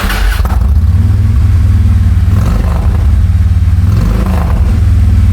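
Monster truck's engine running loud, a steady low rumble with a fast pulse and some rushing noise above it.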